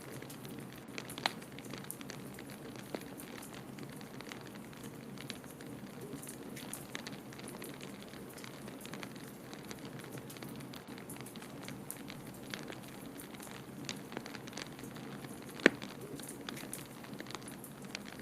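Wood fire crackling in a fireplace: irregular small pops and snaps over a steady low rush of noise, with one sharp, louder pop a little before the end.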